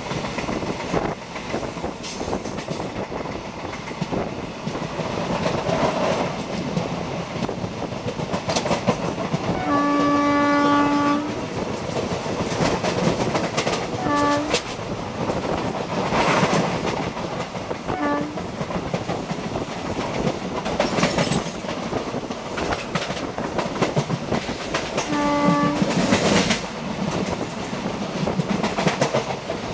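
A passenger train running, heard from inside a carriage, with the steady rumble and clickety-clack of its wheels over the rail joints. A train horn sounds one long blast about a third of the way in, two short toots after it, and another blast later on.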